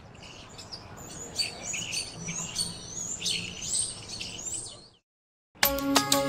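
Many birds chirping and calling over one another in short, high chirps, fading in and then out. A short silence follows, and then music starts near the end.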